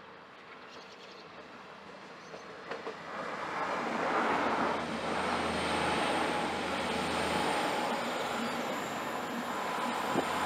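LNER Azuma passenger train approaching and passing close by. Its noise builds from about three seconds in to a steady, loud rush and rumble of wheels on the rails.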